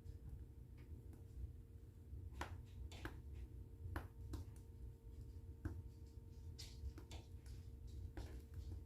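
Fire in a fireplace crackling, with irregular sharp pops about every half second to a second over a steady low rumble.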